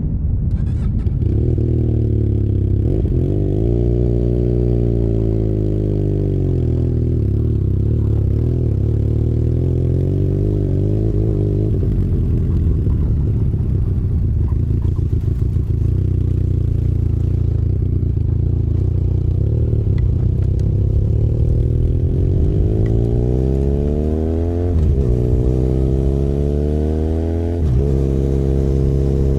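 Benelli Leoncino 500 Trail's parallel-twin engine running under way, its revs rising and falling. Near the end the revs climb and cut back sharply twice, as at gear changes.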